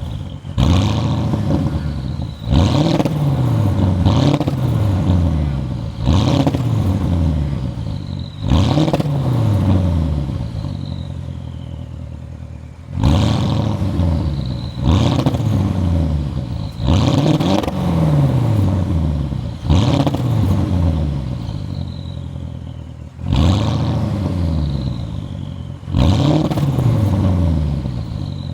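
Porsche Cayenne Turbo's 4.8-litre twin-turbo V8 revved in about a dozen sharp blips, each rising quickly and then falling back toward idle.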